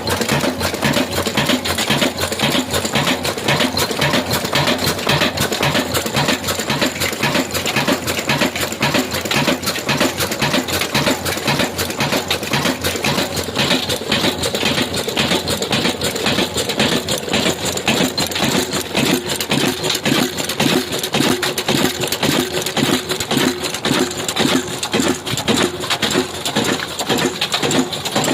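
Old black single-cylinder diesel engine running steadily with an even, rhythmic beat.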